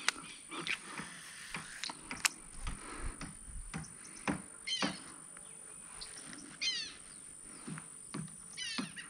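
A bird calling: three short runs of quick high notes, about two seconds apart, over faint scattered clicks.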